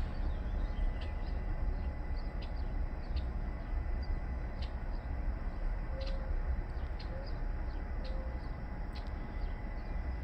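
Outdoor ambience: a steady low rumble with a few faint, short bird chirps and small clicks through the middle.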